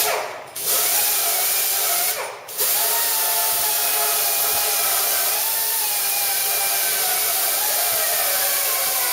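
A handheld electric power tool, such as a grinder or wire wheel, whining against the steel pipe to clean the metal surfaces before welding. It cuts out briefly twice near the start, then runs steadily, its pitch wavering as it loads against the metal.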